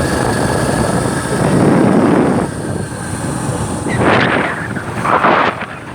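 Motorbike on the move, its engine and the rushing wind over the microphone blending into one loud noise that eases about two and a half seconds in, with two short gusts near the end.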